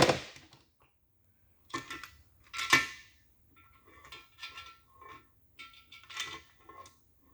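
Metal tools knocking and clinking on a cam bearing installer in a Chevy 283 engine block: two sharper taps, then a run of lighter ringing metal clinks as the bearing is set.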